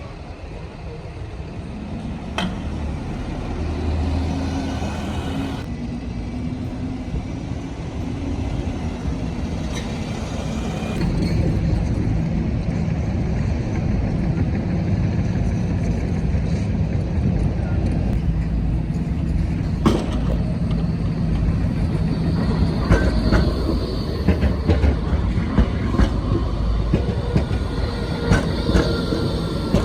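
Light-rail tram running on street track: a steady motor hum that grows louder about a third of the way in, with scattered clicks and a thin high wheel squeal in the second half.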